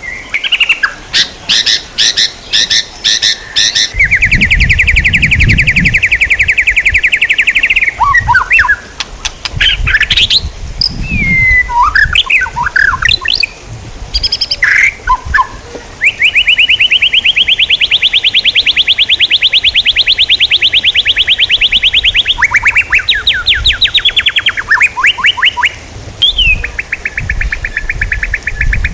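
Songbird singing: long, fast rattling trills alternating with short slurred whistles and chirps.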